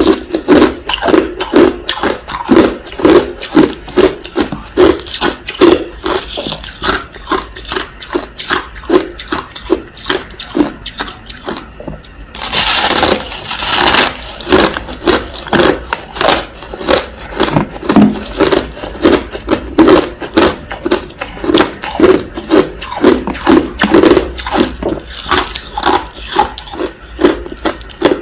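Crushed ice being chewed close to the microphone: a steady run of crisp crunches, about two a second, with a denser, louder rush of crunching a little under halfway through.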